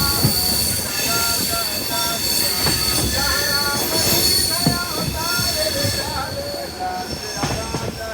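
Passenger train running on the rails: a steady rumble with high-pitched wheel squeal and a sustained whine, easing off somewhat near the end.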